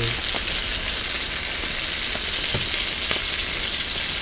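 Pork belly and webfoot octopus frying in oil in a skillet on a camping gas stove: a steady sizzle with a few small pops. The spattering comes from water off the not-yet-thawed octopus meeting the hot oil.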